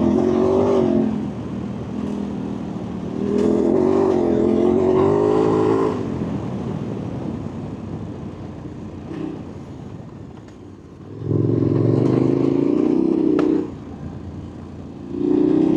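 A motor vehicle engine, most likely a motorcycle, is put under throttle in loud bursts: right at the start, from about 3 to 6 seconds in, from about 11 to 13.5 seconds in, and again near the end. Between the bursts it drops back to a quieter running sound.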